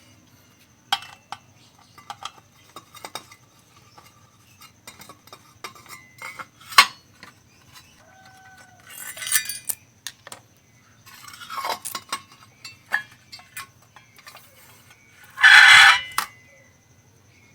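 Small metal tools and electronic parts clicking and clinking on a workbench during amplifier repair, scattered taps and knocks, with a brief louder rush of noise near the end.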